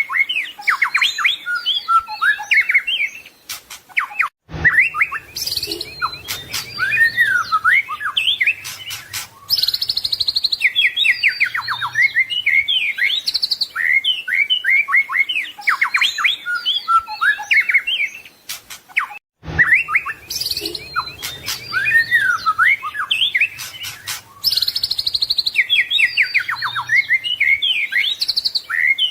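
White-rumped shama (murai batu) singing a fast, varied song of rapid whistled and chattering phrases. The song runs as a repeating loop, broken by two brief gaps, about four seconds in and again about two-thirds through.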